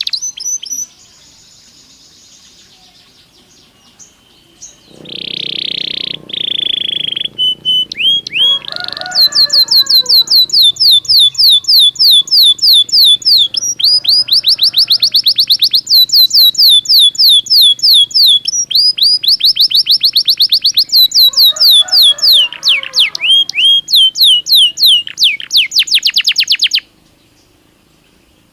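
Belgian canary singing: a few long held whistled notes, then a long run of fast rolling trills, one tour after another, that stops a couple of seconds before the end.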